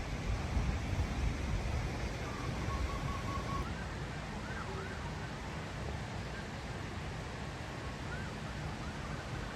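Steady rush of a small waterfall. A bird calls faintly over it, first a quick run of short notes, then several short rising whistles.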